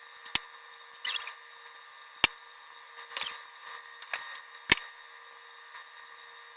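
Close-up eating sounds from a bowl of instant ramen noodles: a few short noisy slurping and chewing bursts, with three sharp clicks spaced about two seconds apart.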